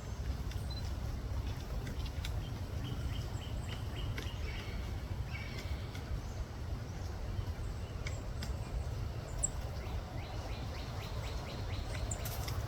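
Short chirping bird calls over a steady low rumble, with scattered light taps and a quick run of taps near the end.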